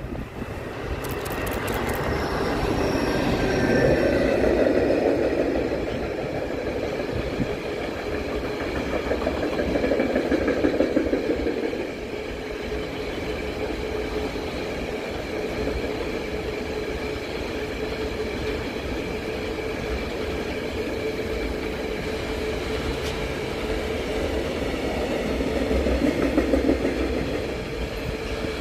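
Container freight train rolling past: a steady rumble of wagon wheels on the rails with a held ringing whine, swelling louder a few times as the wagons go by.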